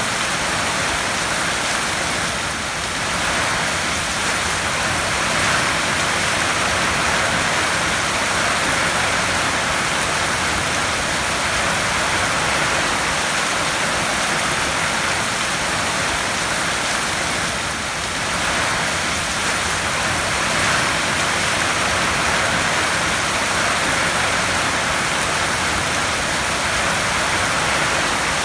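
Heavy rain drumming steadily on a tin roof, a dense even hiss of drops on sheet metal.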